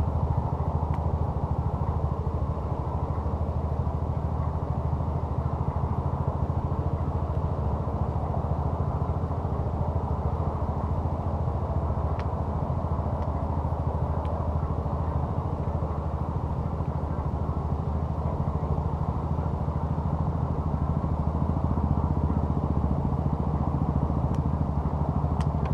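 An engine running steadily at one constant speed, a low even drone with no revving, and a few faint clicks over it.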